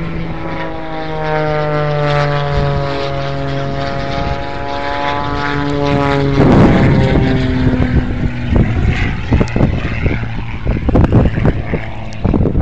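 Propeller airplane engine droning overhead, its pitch dipping and then rising again as it manoeuvres. From about six seconds in, gusts of wind buffet the phone microphone and cover the engine.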